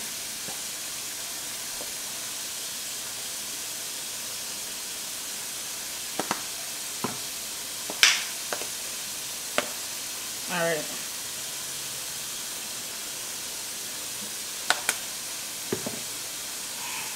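Cabbage sizzling steadily in a covered pot on low heat, with a few sharp clicks and taps from seasoning jars being handled; the loudest click comes about eight seconds in.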